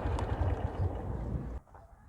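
Motorcycle engine running on the move, with wind on the microphone; the sound stops abruptly about one and a half seconds in.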